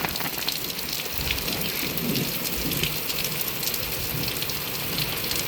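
Heavy rain pouring down: a steady, dense hiss with many separate drops ticking through it.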